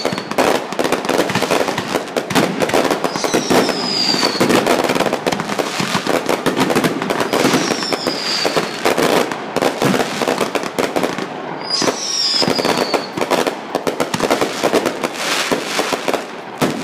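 Close fireworks display: a dense, continuous barrage of crackling pops and bangs, with a few short falling whistles from shells three times in the middle of it. It eases off near the end.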